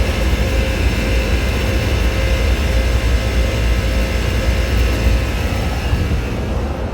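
Carrier air-conditioning condensing unit running steadily, a deep rumble with a faint steady hum from the compressor and condenser fan. The compressor is running flooded, a TXV overfeeding liquid refrigerant with only 1 to 2 degrees of superheat.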